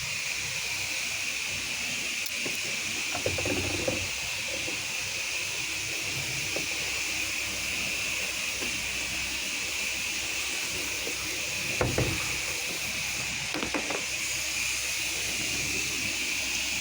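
Steady hiss with a few brief knocks and bumps, about three seconds in and again around twelve and fourteen seconds.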